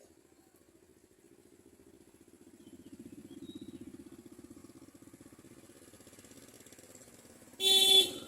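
A motor vehicle engine, with a fine, rapid pulse, passes by: it grows louder about three seconds in and then fades. Near the end comes a short, loud beep of steady pitch.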